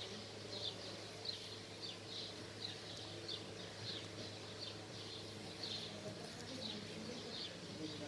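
Faint bird chirping: a steady series of short high chirps, about two or three a second.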